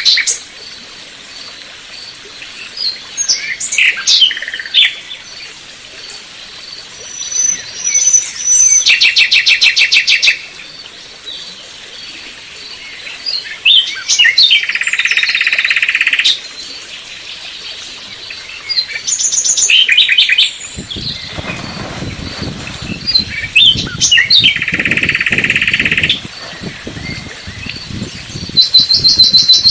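Small birds singing and calling, a mix of short chirps, fast trills and buzzy songs about two seconds long. A low rumbling noise runs under them in the last third.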